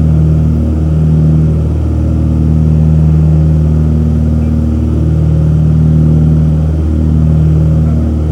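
The twin piston engines of a 1930s de Havilland Dragon Rapide biplane in cruise, heard from inside the cabin: a loud, steady drone with a slow wavering beat as the two engines drift in and out of step.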